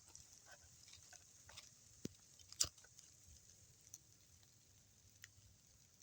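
Near silence broken by sparse small clicks and ticks, with two sharper clicks about two seconds in, half a second apart.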